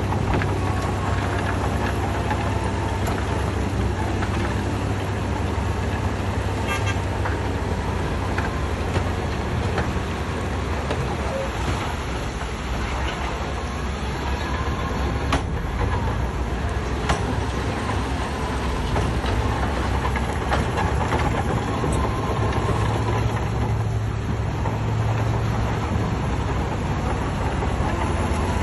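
Heavy diesel construction machinery running steadily with a deep engine rumble, with a few sharp knocks over it.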